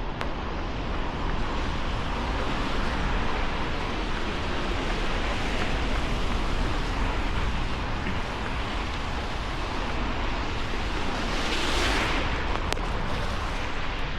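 Steady hiss of rain and wet city street noise, swelling louder briefly near the end.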